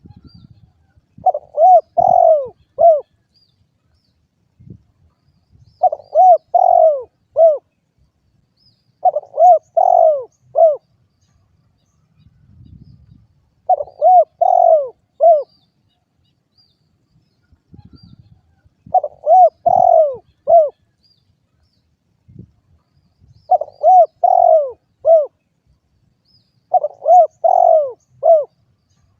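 Spotted dove (derkuku) cooing: seven short phrases of four to five low, hooting notes, repeated about every four seconds.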